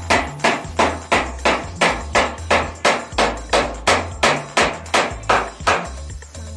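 Hammer blows struck in a steady, even rhythm of about three a second, stopping near the end.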